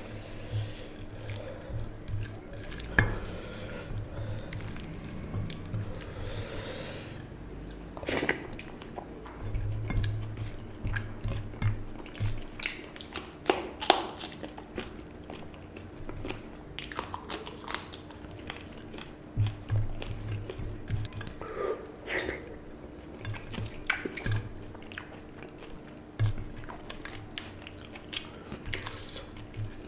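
Close-miked chewing and wet mouth sounds of a man eating panta bhat (soaked rice) with mashed bhorta by hand, with squelches of his fingers mixing rice on the plate and sharp clicks now and then. A faint steady hum runs underneath.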